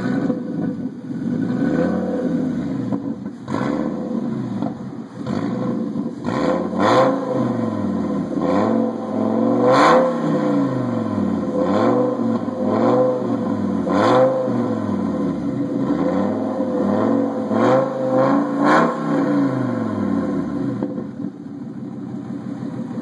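Fiat Stilo Abarth's five-cylinder engine and exhaust being revved again and again, the pitch rising and falling about once a second, then settling back to a steady idle near the end.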